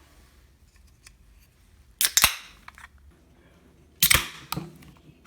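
Two loud knocks about two seconds apart, each ringing briefly, with a few lighter ticks between them.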